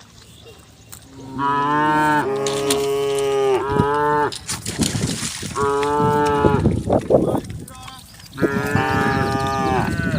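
Cattle mooing: several long, loud calls one after another with short gaps between, and a noisy rustling stretch between calls midway.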